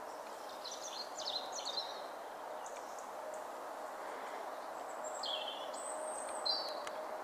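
Woodland birds chirping and twittering in short high calls, in two spells, over a steady background hiss.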